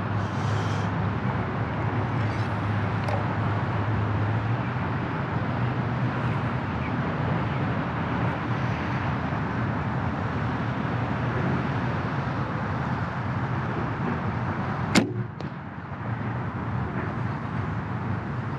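A single sharp snap of a PSE compound bow being shot, about three quarters of the way through, over a steady low background rumble.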